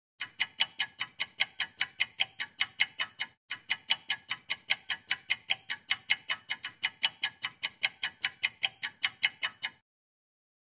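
A sharp, even ticking sound effect, about four ticks a second, with a brief break about three seconds in, stopping shortly before the end.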